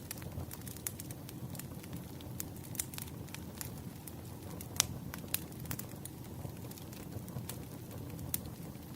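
Bonfire crackling: a steady low rumble of burning with frequent sharp pops and snaps, the loudest about five seconds in.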